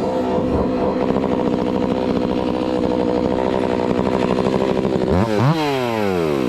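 Two-stroke chainsaw running steadily, then revved briefly about five seconds in, its pitch falling away as the throttle is released.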